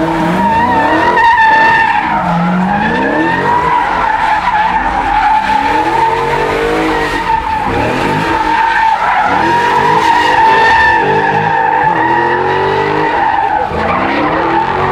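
Car tyres squealing without a break as the car drifts or spins donuts, while its engine revs up and down again and again.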